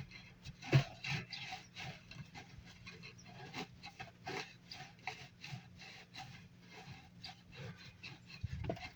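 Hand saw cutting through PVC water pipe in quick, even rasping strokes, about three a second.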